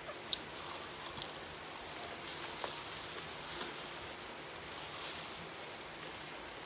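Quiet eating sounds: chewing, with a few faint clicks and crinkles from a thin plastic glove handling fried chicken and rice, over a steady hiss.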